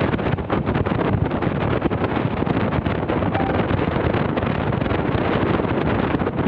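Wind buffeting hard on the microphone over the low rumble of a moving vehicle, steady and loud, easing just as it ends.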